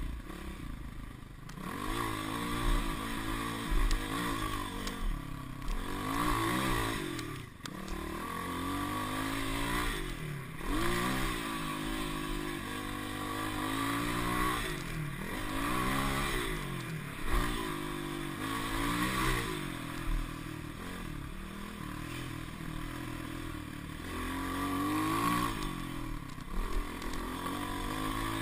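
Off-road motorcycle engine revving up and down again and again as it is ridden over a rough dirt trail, the pitch rising and falling every couple of seconds with the throttle.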